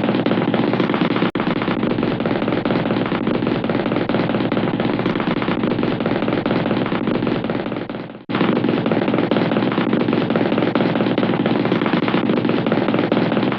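Cartoon sound effect of a rapid, continuous machine-gun-like rattle, breaking off briefly about eight seconds in and then starting again.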